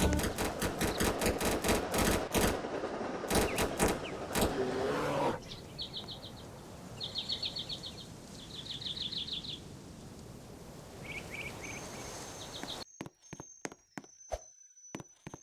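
Rapid clicking and crackling for about five seconds, then a bird singing a series of short, fast trills, with a few scattered clicks and a thin high whine near the end.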